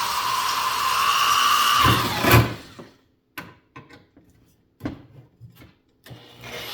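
Electric drill running under load, drilling out a steel rivet in a fan blade, its whine climbing slightly in pitch. About two and a half seconds in it stops with a couple of heavy knocks, a few light metal clicks follow, and the drill starts up again near the end.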